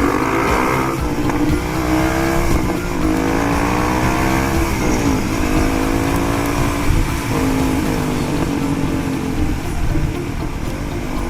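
Dirt bike engine running off-road, its revs rising and falling several times as the throttle is worked, over a steady low rumble.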